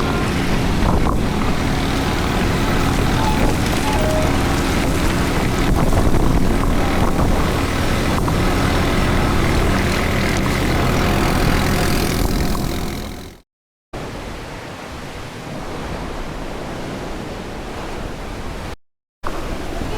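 Steady low rumble of an engine running while travelling, with wind noise. After a sudden cut about two-thirds of the way in, a quieter, even rush of wind and water follows.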